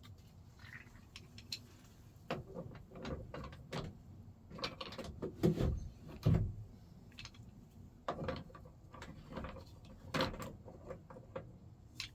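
Irregular metal clicks, rattles and knocks of hand work on a pickup truck's door latch and handle hardware, with a couple of heavier clunks about halfway through.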